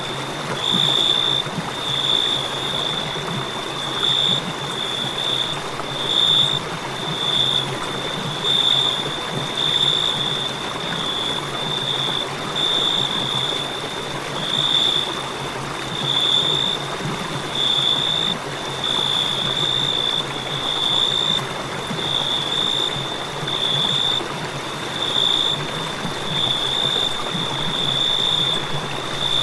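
Crickets chirping in a high, pulsing trill that comes in bursts about every second, over a steady hiss.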